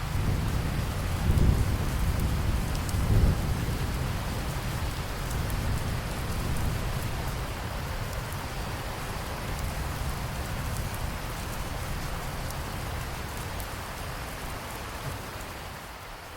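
Steady heavy rain, with a low rumble of thunder rolling in the first few seconds and then dying away.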